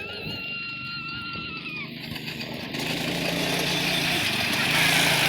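A child's go-kart motor running, louder from about halfway through. A steady high whine-like tone sounds for the first two seconds.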